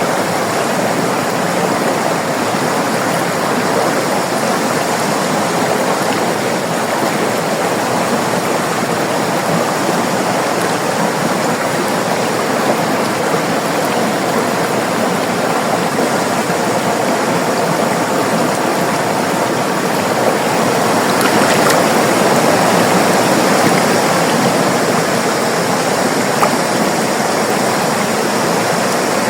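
River water running, a steady rushing flow that swells a little about two-thirds of the way through.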